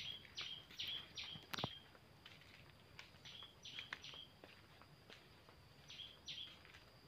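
A small bird calling in quick runs of short high chirps, each note dropping in pitch, with gaps between the runs. A few soft thuds of footsteps on a dirt path come in the first two seconds.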